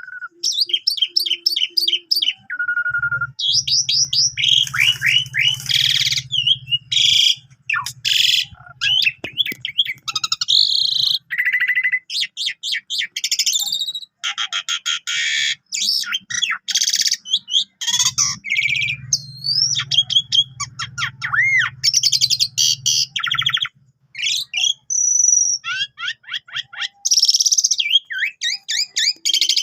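Asian pied starling (jalak suren) singing a loud, varied song of whistles, chirps, pitch glides and rapid trills, full of borrowed phrases from other birds' songs. A low steady hum runs underneath twice, for several seconds each time.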